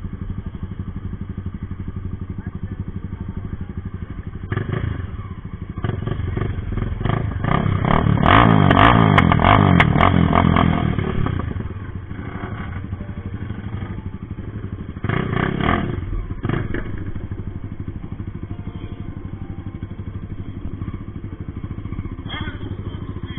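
Motorcycle engines idling with a lumpy, pulsing beat and revving in short bursts, swelling to a loud run of revs for a few seconds near the middle with sharp pops on top, then dropping back to idle with another short rev burst later.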